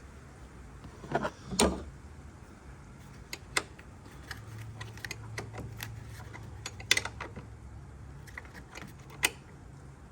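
Hand tools and small parts being handled during a car repair: scattered light clicks and knocks, with louder knocks about a second and a half in and again about seven seconds in.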